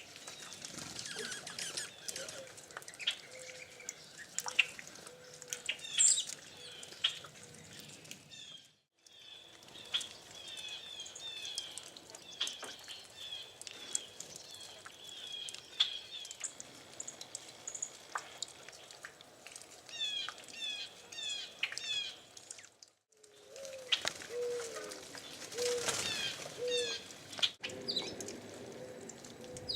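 A mix of small songbirds chirping and calling at a feeder, in quick overlapping chirps and trills, with a low, repeated cooing near the end.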